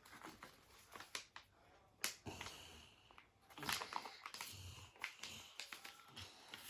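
A sheet of paper being folded and creased by hand, with faint rustling and crinkling and a few sharp snaps, the strongest about two seconds in and near the middle.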